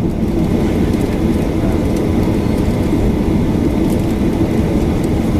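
Steady cabin noise inside a Boeing 737-800 on the ground: a loud, even low rumble with a faint hiss above it and no changes.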